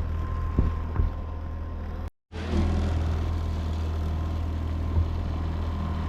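Boat's outboard motor running steadily at trolling speed, with a few short knocks. The sound cuts out for a moment about two seconds in.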